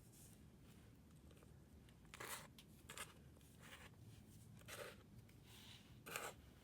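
Faint, short crunches of a pressed powder block, such as gym chalk or corn starch, being crumbled by hand: about half a dozen soft crackles spaced irregularly over a few seconds.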